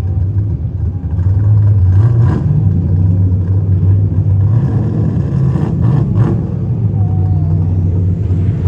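Drag-racing car engines running hard on the strip: a loud, deep engine rumble that builds over the first second and a half and then holds steady.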